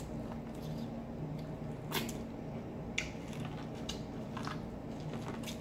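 Close-miked eating: biting and chewing sauce-coated corn on the cob, with a few short wet smacking clicks spaced about a second apart over a low steady hum.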